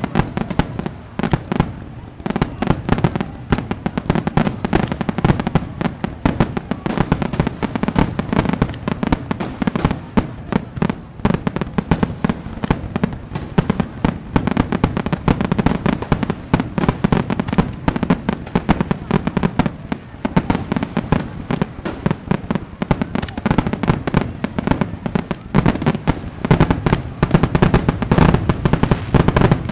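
Fireworks going off in a dense, continuous barrage of overlapping bangs and crackles, with no pauses between them.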